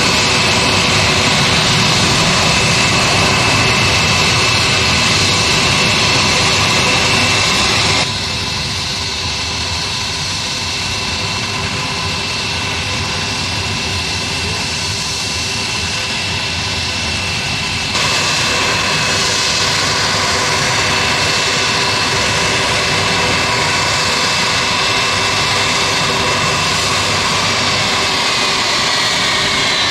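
Aircraft turbine engines running, a continuous rush with a steady high whine over it. The level drops abruptly about 8 s in and comes back up about 18 s in. Near the end the whine glides down in pitch.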